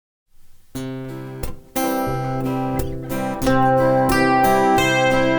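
Acoustic guitars strumming a song's opening chords, starting from silence just under a second in and getting louder in steps as new chords are struck.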